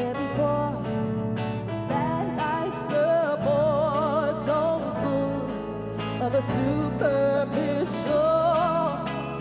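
A live soul-pop performance: a singer's voice holding and bending notes with vibrato over steady band accompaniment.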